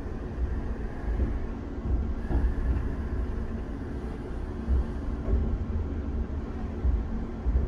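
Inside the carriage of a Class 710 Aventra electric train: a steady low rumble with an underlying electrical hum.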